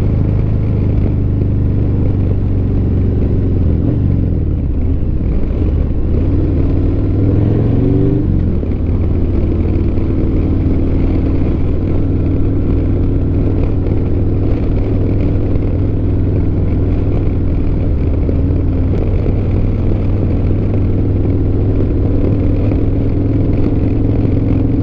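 Motorcycle engine running, rising in pitch as it accelerates about four to eight seconds in, then holding a steady pitch.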